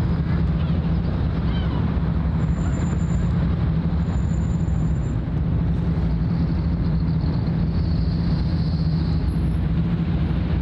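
Steady low engine drone with a constant deep hum and an even rumble, unchanging throughout. Faint short high-pitched whistles sound a few times over it.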